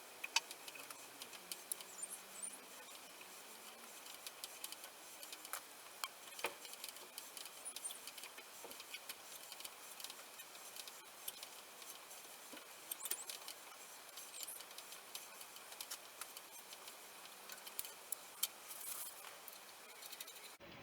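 Faint, irregular small metallic clicks and scrapes of hand tools working a small steel part, with no machine running.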